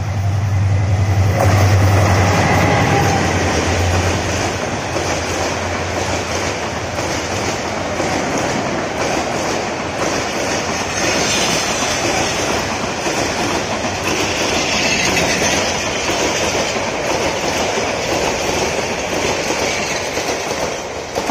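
Metre-gauge diesel locomotive passing close at speed, its engine drone loudest in the first few seconds, then a long rake of passenger coaches rushing by with steady clickety-clack of wheels over rail joints.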